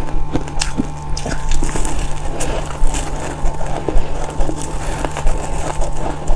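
Rapid, irregular crunching and crackling of freezer frost being bitten and chewed, over a steady low hum.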